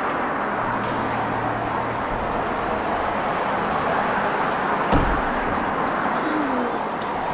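Steady rushing road noise of a moving vehicle, with a brief low thump about five seconds in.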